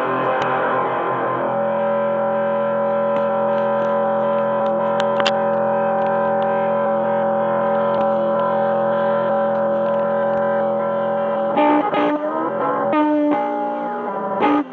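Electric guitar through distortion and effects, holding long sustained chords. The chord changes about a second and a half in, with a couple of new strums near the end.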